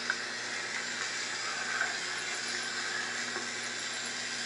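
Small battery electric motor of a K'NEX toy motorbike running, a steady whirring hiss as its drive rod and plastic gears turn the wheels.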